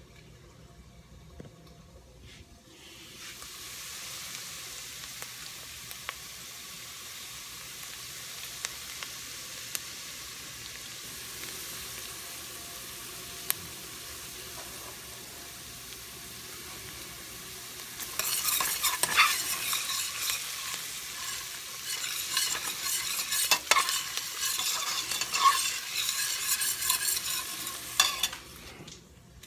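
Garlic frying in hot oil in a pan, a steady sizzle that starts a few seconds in. From about two-thirds of the way through it is stirred, and the sizzle gets louder with scraping strokes. It stops shortly before the end.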